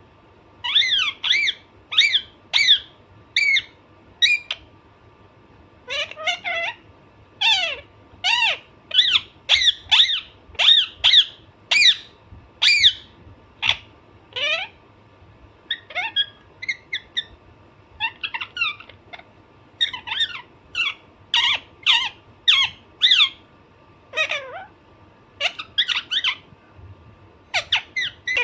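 Alexandrine parakeet squawking: short harsh calls, mostly falling in pitch, about two a second in runs broken by brief pauses.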